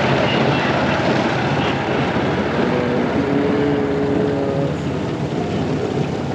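Small boat's engine running steadily as the boat moves along, with a few faint held tones over it a little after the middle.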